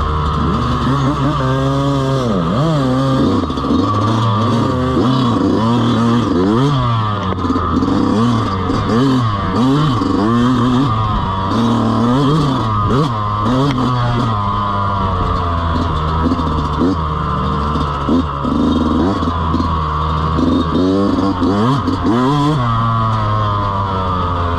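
Dirt bike engine revving up and down over and over while being ridden, its pitch rising and falling quickly as the throttle is opened and closed.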